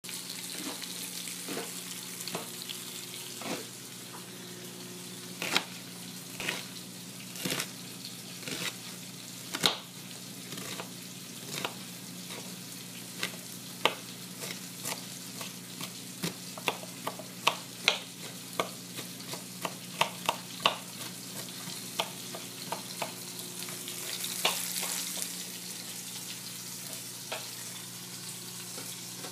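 Food sizzling as it fries in a pan, with frequent clinks and taps of utensils against pans over a steady low hum. The sizzling swells briefly near the end.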